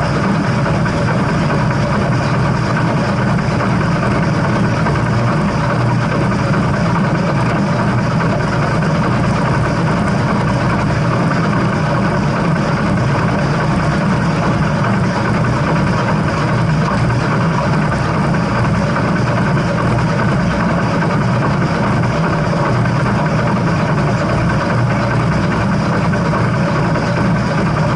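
Steam train running, a steady loud rumble that does not change and has no whistle or distinct beats in it.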